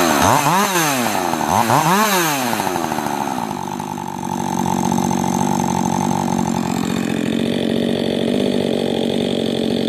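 Husqvarna 562 two-stroke chainsaw revved up and let back down twice in quick succession, then running steady before dropping back to a lower idle about seven seconds in.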